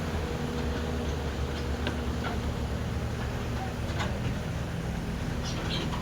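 Heavy diesel engine of construction machinery running steadily at a constant speed, with a few short knocks or clanks about two seconds apart.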